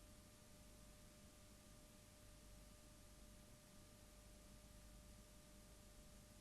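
Near silence: faint steady hiss and low rumble with a thin, steady high tone running underneath.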